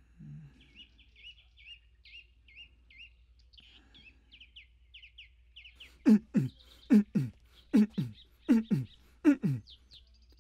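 A bird chirping over and over, about two short notes a second. From just past the middle come eight loud, short sounds about half a second apart, each dropping sharply in pitch; these are the loudest part.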